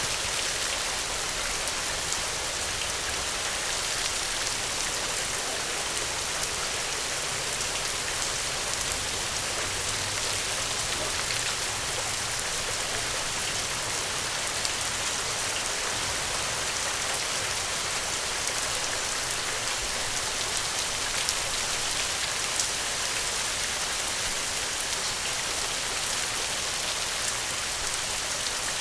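Steady rain: an even hiss dotted with small drop ticks.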